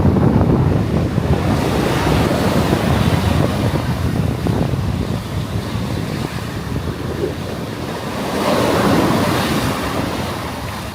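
Sea waves breaking and washing on the beach, with strong wind buffeting the microphone in a continuous low rumble. A louder wave surges about eight seconds in.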